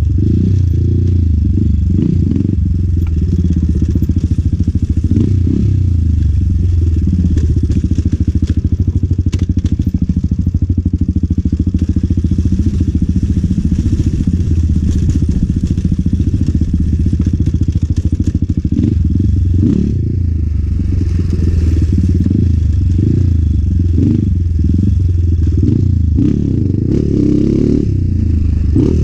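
Enduro motorcycle engine running hard and revving up and down as the bike is ridden over rough ground, with occasional clattering knocks.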